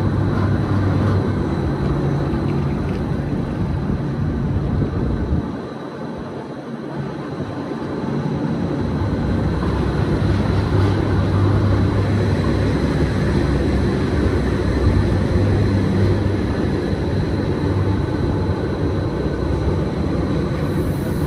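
Gornergrat Railway electric rack train running, a steady rumble of wheels and motors with a faint steady high whine; it dips quieter for a couple of seconds about six seconds in.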